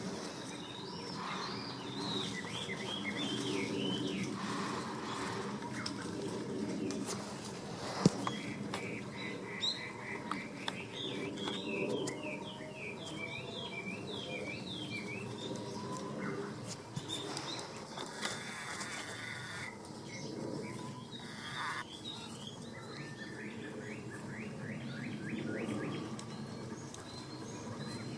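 Small birds chirping and twittering in short repeated phrases, over a lower steady background sound, with a single sharp click about eight seconds in.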